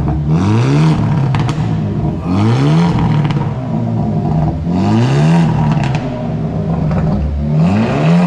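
Hyundai Elantra N's 2.0-litre turbocharged four-cylinder engine, freshly woken after its build, blipped four times from idle, each rev rising quickly and falling back, about every two and a half seconds. Sharp pops crackle from the exhaust on the overrun, which the crew call "popcorn" and a strong sound.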